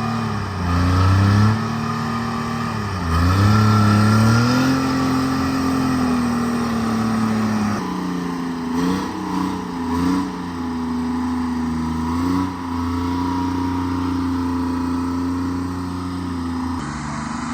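Forestry forwarder's diesel engine running under load, its revs dipping and recovering several times, with a longer sag about three seconds in and a few quick wavers around the middle.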